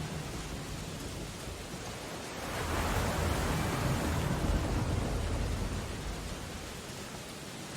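Steady rain on window glass over a storm-sea backdrop; about two and a half seconds in, a louder, deeper surge builds, holds for a few seconds, then fades back.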